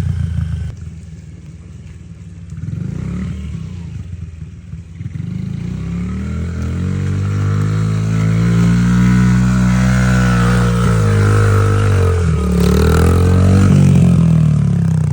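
Pit bike engine revving on a hill climb. It is quieter for the first few seconds, then from about six seconds in it grows louder, its pitch rising and falling as the throttle changes, and it stays loud near the end.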